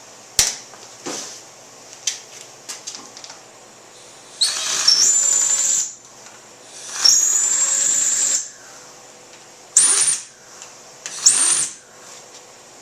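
Cordless power drill-driver spinning bolts down into the fork clamps: two runs of about a second and a half, each a high whine rising to a steady pitch, then two short bursts that snug them up. A few light metal clicks of handling the tool and bolts come first.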